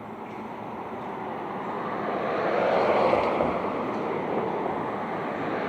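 A vehicle passing by, its rushing noise swelling to a peak about three seconds in and then slowly easing off.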